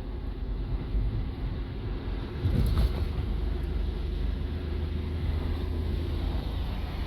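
Car engine and road noise heard from inside a moving car: a steady low drone that gets louder about two and a half seconds in.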